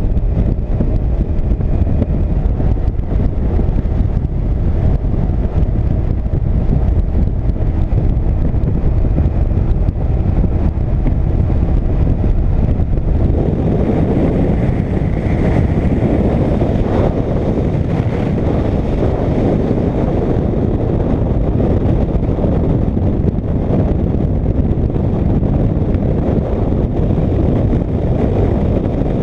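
Motorcycle riding at road speed: steady wind rush over the microphone with engine and road noise beneath. The wind grows rougher about halfway through.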